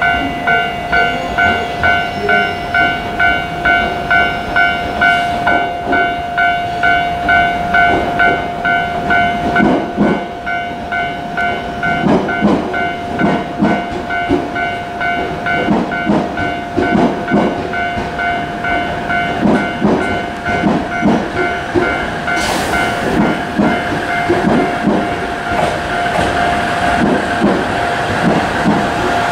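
A pulsing electronic warning tone, about one and a half beeps a second over a steady higher note, sounds and stops a few seconds before the end. Beneath it a JR East KiHa 110 series diesel railcar rolls in through the pointwork, its wheels knocking over rail joints and switches, with a short air hiss about three quarters of the way through.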